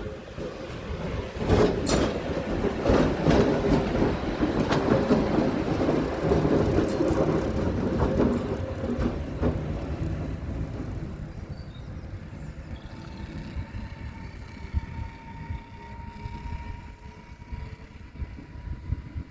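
A class 189 electric locomotive running light past, with no wagons behind it. It gets loud about a second and a half in, with a run of sharp clicks from the wheels crossing rail joints, then fades away. A faint steady whine is left near the end.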